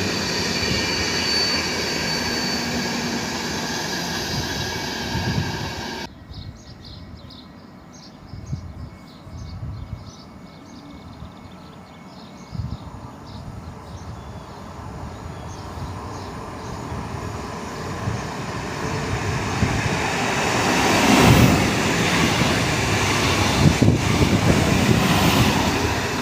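Electric train running through a station with its wheels squealing in steady high tones, cut off suddenly about six seconds in. Then another train is heard approaching and passing, growing loud with wheels knocking over rail joints toward the end.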